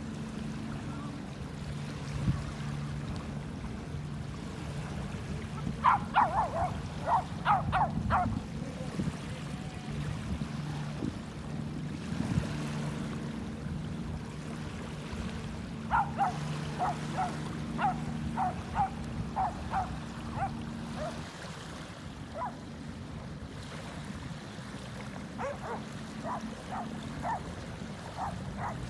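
A dog barking in three runs of quick barks, about four a second, over a steady wash of surf and a low hum.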